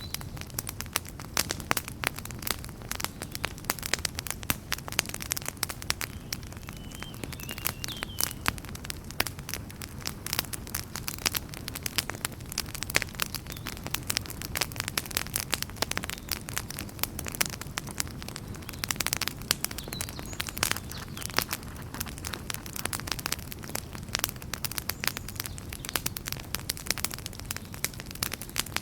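Wood campfire crackling steadily, a constant stream of sharp pops and snaps over the low rush of the flames.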